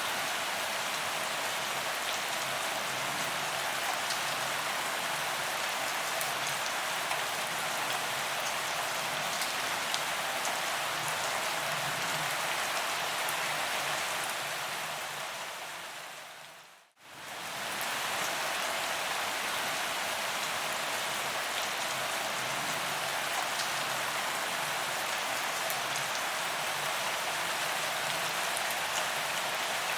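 Rain falling on paved ground: a steady dense hiss with scattered drop taps. A little past halfway it fades out to near silence and then straight back in.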